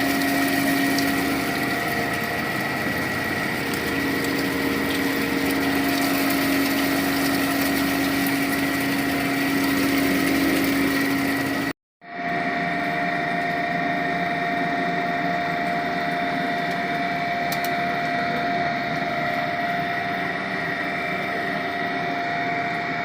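Cremation furnace's blower and burner running steadily: a constant rushing noise with a few steady hums. It breaks off for a moment about twelve seconds in and carries on.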